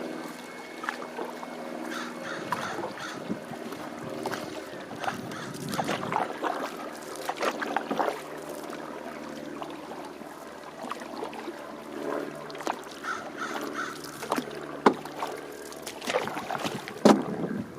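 Canoe being paddled: paddle strokes splashing in the water, with sharp knocks of wood against the hull, two of them loud near the end. Cawing bird calls are heard over it.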